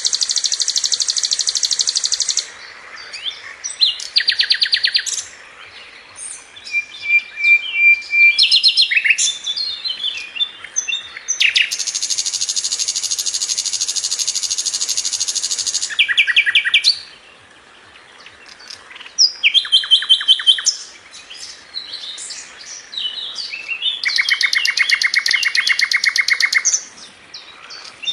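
Sikatan londo, a flycatcher, singing loudly. Long, very rapid trills of tightly packed repeated notes, each lasting a few seconds, alternate with shorter, varied chirping phrases.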